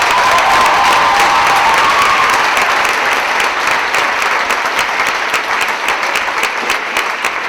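Audience applauding, a dense clatter of many hands clapping that eases slightly after the first few seconds.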